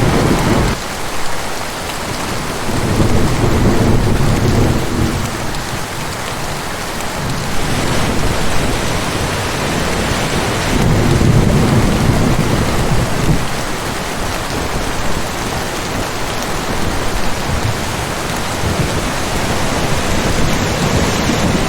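Heavy rain pouring steadily, with rolling thunder rumbling low twice, about three seconds in and again about eleven seconds in.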